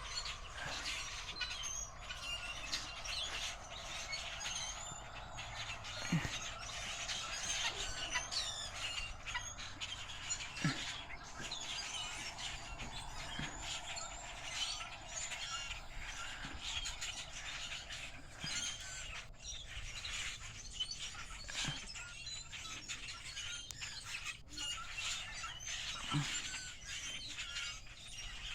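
Unidentified birds giving many short, high calls that overlap one another without a break, with steady background noise beneath.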